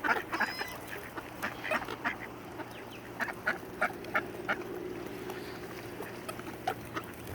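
Ducks quacking and honking in short, scattered calls, several overlapping through the whole stretch.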